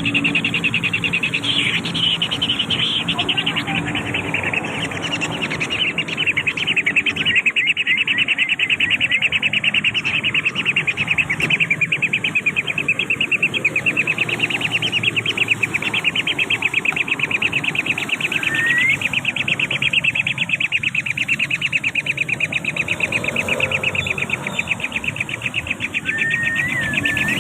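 Wildlife sounds: a rapid, even pulsing trill that carries on throughout, with a short rising bird chirp about two-thirds of the way in and another near the end.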